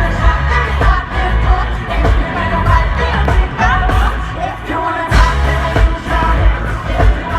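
Live pop concert recorded from the audience: female voices singing over a loud, pulsing bass beat.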